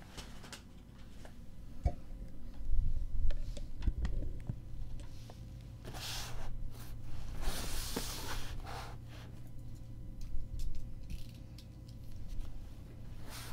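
Handling noises from opening a mailed package: low bumps and knocks, scattered clicks, and two bursts of rustling, about six and eight seconds in.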